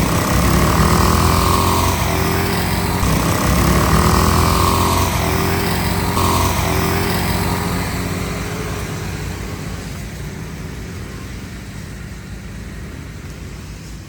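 Racing riding lawn mower engine revving up and down repeatedly, its pitch rising and falling every two to three seconds, then fading steadily over the second half as the mower moves away.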